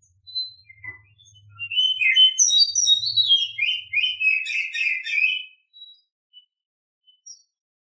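Female oriental magpie-robin's mating song: a few short high notes, then a rapid run of varied whistled and chattering phrases lasting about three and a half seconds, then a few scattered single notes.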